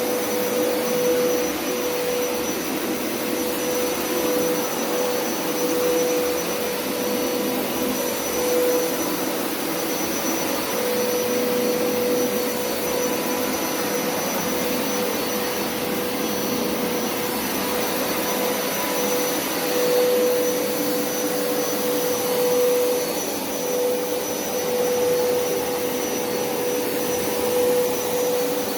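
Hoover SpinScrub50 upright carpet cleaner running steadily, its suction motor giving a constant whine with a steady hum, the level swelling slightly now and then as it is pushed over wet carpet.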